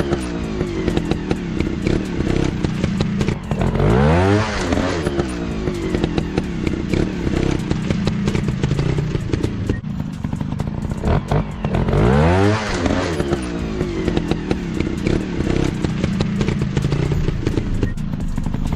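Dirt bike engine revving up and down, with two big rev sweeps about four seconds in and about twelve seconds in, over a busy mechanical clatter.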